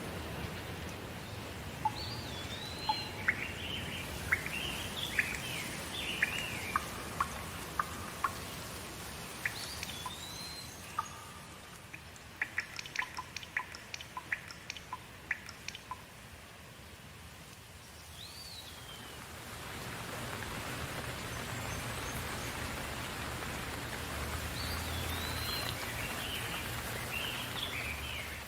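Steady rain with drops falling, which eases off near the middle and picks up again after. A bird calls now and then in short swooping phrases, and a quick run of sharp drips ticks near the middle.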